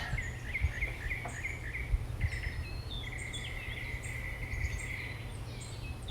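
Songbirds chirping: a quick run of short, repeated chirps, then a longer steady whistle in the middle, with higher twitters throughout. A steady low rumble runs underneath.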